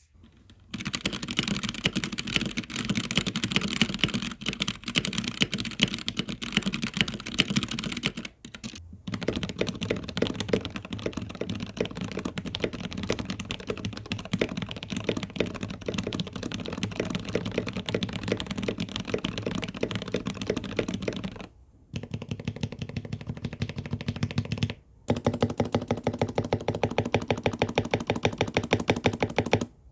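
Fast, continuous typing on a Gamakay/Womier K87 mechanical keyboard with Gateron switches: for about the first eight seconds the stock board, then, after a short break, the modded board with lubed and filmed switches, clipped and lubed stabilizers, PBT keycaps and foam in the case, sounding less bright and deeper. After a break a little past twenty seconds, the modded board is typed on a desk mat.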